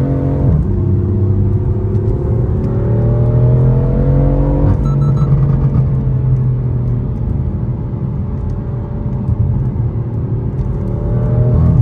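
Car engine pulling through the gears while driving. The revs climb steadily, drop sharply at a gear change about half a second in and again about five seconds in, then fall away slowly as the car eases off, before picking up again near the end.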